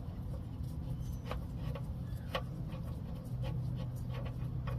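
A few faint, short clicks and light handling noises from the oil pan drain plug being turned out by a gloved hand, over a steady low hum.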